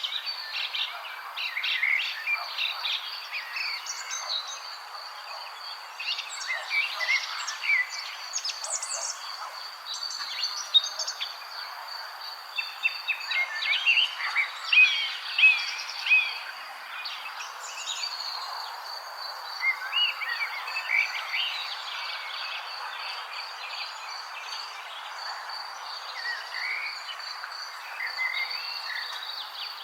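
Many small birds chirping in short, quick calls, busiest about halfway through, over a steady high-pitched insect trill and a constant background hiss.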